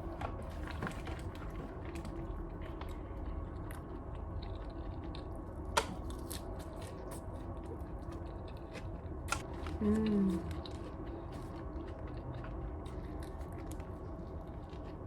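A person chewing and biting food close to the microphone, with scattered small mouth clicks. A short pitched vocal sound comes about ten seconds in.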